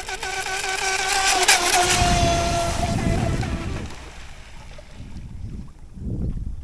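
Brushless electric motor and propeller of a radio-controlled outrigger racing boat whining at speed. The whine grows louder as the boat nears, drops slightly in pitch as it passes about a second and a half in, and fades out, leaving a low rushing noise of wind and water. The owner feels the propeller may be drawing in a little air.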